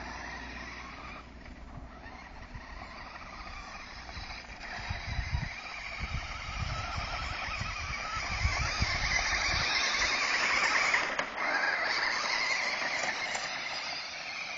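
A small vehicle driving, its running noise a steady hiss that grows louder through the middle and peaks about two-thirds of the way in, with irregular low thumps along the way.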